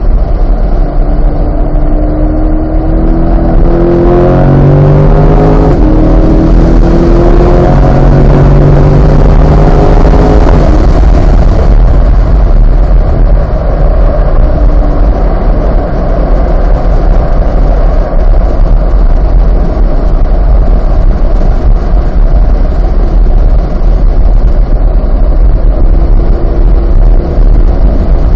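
Chevrolet Corvette C8's 6.2-litre V8 at full throttle on a race track, its pitch climbing through two or three upshifts over the first ten seconds or so. It then settles into a steadier, lower note under a constant heavy low rumble of wind and road noise.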